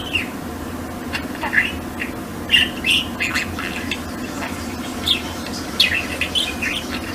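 Budgerigar chattering: a scattered run of short chirps and squeaky, speech-like warbles over a steady low hum.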